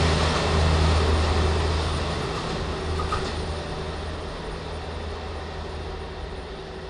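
KiYa E195 track-maintenance diesel railcar's Cummins engines running hard under load with a low steady drone, the train's rumble fading steadily as it pulls away.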